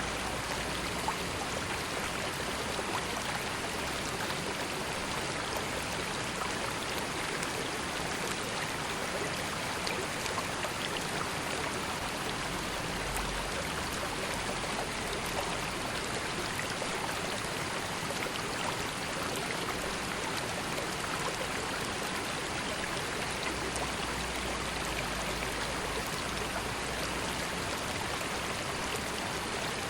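River water flowing steadily, an even rushing babble with small scattered splashes and trickles.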